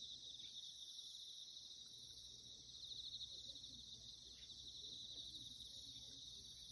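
Insects trilling steadily in a high, fast-pulsing chorus, with a few faint ticks.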